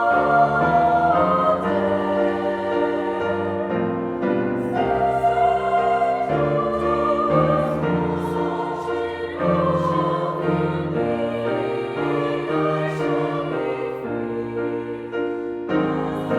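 A mixed choir singing with piano accompaniment: sustained sung chords that move from note to note.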